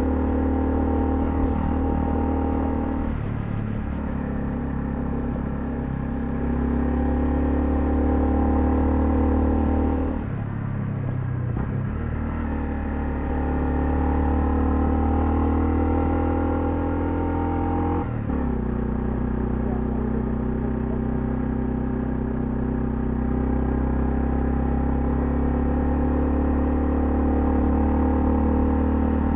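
Honda CL250's single-cylinder engine running under way at a steady note, which shifts briefly in pitch three times: about three seconds in, for about two seconds around ten seconds in, and again around eighteen seconds in.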